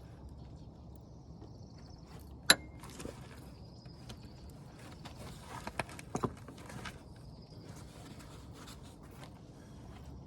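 A few scattered clicks and clinks from hand tools and bolts working on a brake caliper: one sharp click about two and a half seconds in, then a few lighter ones around six seconds, over faint outdoor background noise.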